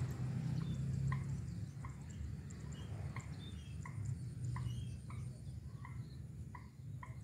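Small birds chirping over a rice field: short, repeated chirps about one or two a second, with higher twitters between them, over a steady low rumble.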